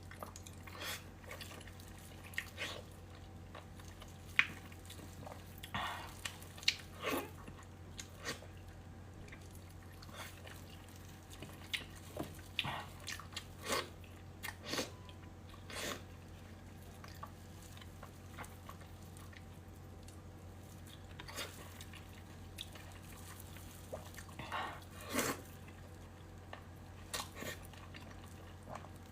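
Close-miked eating sounds of a person eating steamed fish: irregular wet smacks, slurps and clicks of chewing, spaced a second or more apart, over a steady low hum.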